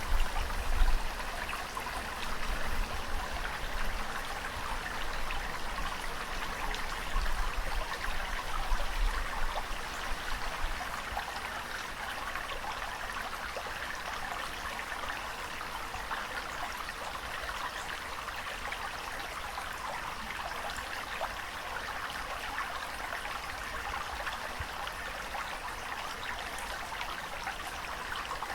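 Steady running water with a constant splashing hiss. A low rumble swells and fades several times in the first ten seconds, then the sound settles to an even level.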